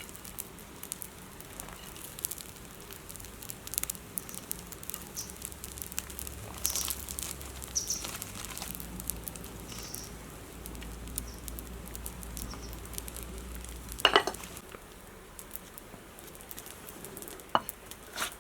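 Wood campfire crackling and popping with a sizzle, with irregular sharp snaps; the loudest snap comes about fourteen seconds in.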